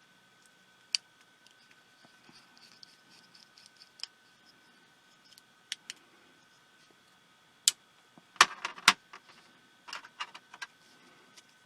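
Scattered light clicks and taps of small tools and tiny parts being handled while a pico projector is taken apart, with a quick cluster of louder clicks about eight and a half seconds in.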